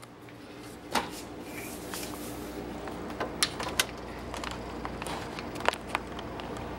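Knocks and small rattles of a cat moving about inside a refrigerator, over a steady low hum. The loudest knocks come about a second in and again near six seconds.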